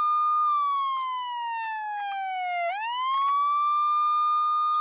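Emergency-vehicle siren wailing: its pitch holds high, slides slowly down, then sweeps quickly back up about two and a half seconds in and holds high again. A few faint clicks sound under it.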